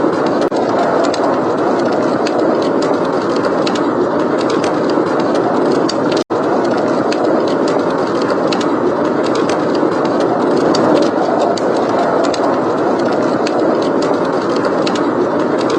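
Steady rush of blizzard wind with the small crackles and pops of a wood fire scattered over it. The sound drops out for an instant a little past six seconds in.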